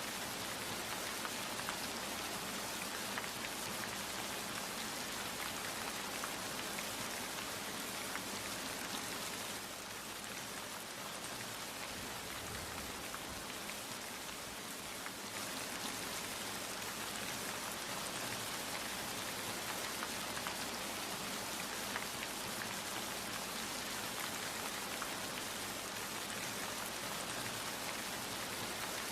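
Steady rain falling, a dense hiss with many small drop patters on surfaces; it eases slightly for a few seconds about a third of the way in.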